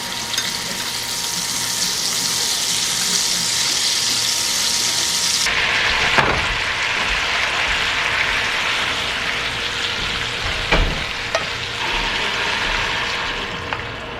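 Food sizzling in a frying pan: a loud, steady hiss that starts suddenly, loses some of its high hiss about five seconds in, with a couple of sharp clicks.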